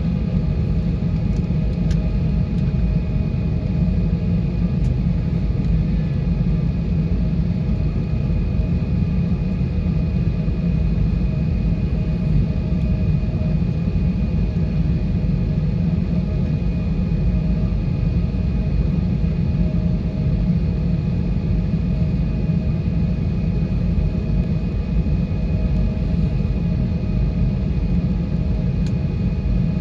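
Steady cabin rumble inside an Airbus A320-232, the noise of its IAE V2500 engines and the air around it, with a faint steady whine over the low rumble.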